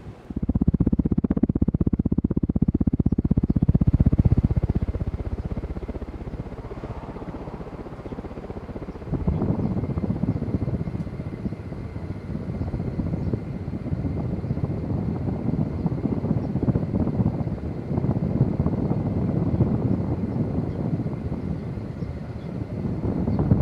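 Downdraft from a 1983 Casablanca Panama five-blade ceiling fan buffeting the microphone: a loud, low, rumbling wash of air with rapid pulsing. It starts suddenly, eases off about five seconds in and comes back stronger about nine seconds in.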